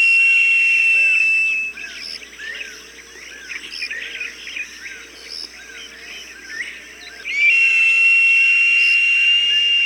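Recorded falcon cries used as a bird deterrent: a long, high, steady scream that ends just under two seconds in, then a run of short chirping calls about twice a second, then the long scream again starting about seven seconds in.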